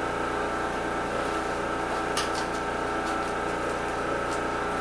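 Honda 300EX's air-cooled single-cylinder four-stroke engine running steadily at idle from a cold start, with a few sharp clicks about two seconds in and again later. It is running on only the fuel left in the carburettor, as the fuel valve is still turned off.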